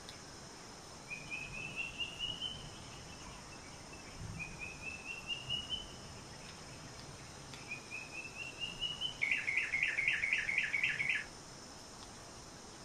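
A bird singing: three rising runs of quick notes, then a louder, faster run of about ten notes that stops sharply, over a steady high insect hiss.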